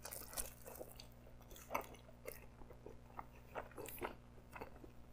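A person biting and chewing a mouthful of pepperoni pizza: faint, irregular chewing clicks, the sharpest about two seconds and four seconds in.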